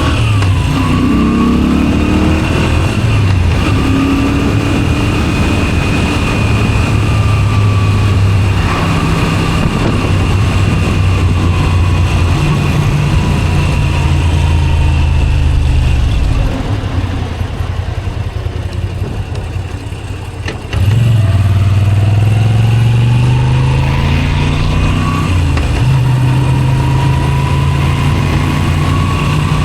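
Moto Guzzi V7 Special 850's air-cooled transverse V-twin running through a Zard exhaust under way, its pitch climbing and dropping as the gears change. About two-thirds of the way through it falls quieter for a few seconds with the throttle closed, then comes back suddenly and climbs as the bike accelerates.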